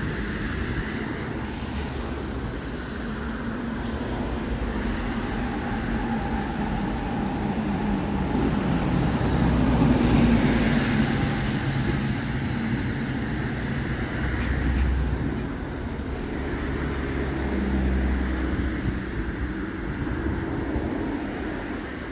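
Passenger train running past on the track below, a continuous rumble with a low steady hum that builds to its loudest about ten seconds in and fades away near the end.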